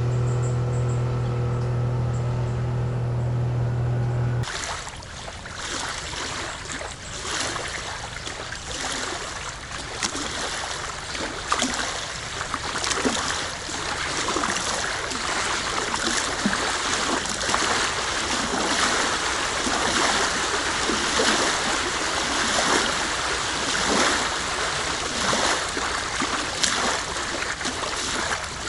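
A steady low hum for about four seconds, then a campfire crackling and hissing, with many sharp pops throughout.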